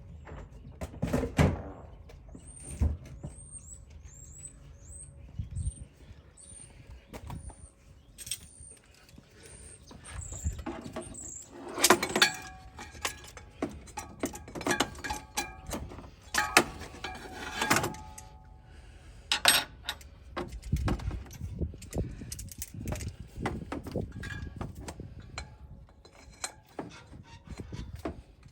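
Metal tools and parts clinking and clanking at irregular moments, several knocks ringing on briefly, with a run of short high squeaks in the first ten seconds.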